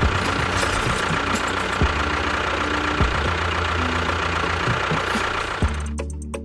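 Engine running steadily with a low hum and irregular sharp knocks, typical of a tractor diesel idling. Near the end it cuts abruptly to a different, quieter sound with steady tones and spaced clicks.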